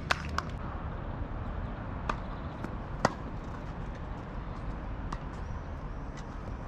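A few separate sharp knocks of a tennis ball being hit and bouncing on the court, the loudest about three seconds in, over a steady low outdoor background rumble.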